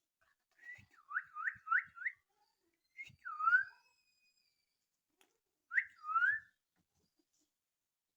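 Baby parakeet chirping: a quick run of four rising-and-falling chirps, then a longer swooping call, and two more calls near the end.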